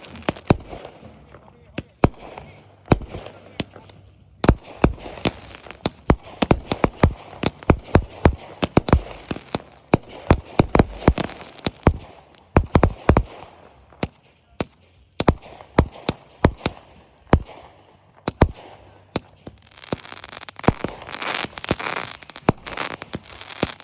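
Aerial fireworks going off, many sharp bangs of bursting shells in quick, uneven runs with short gaps. Near the end a dense crackling fills in between the bangs.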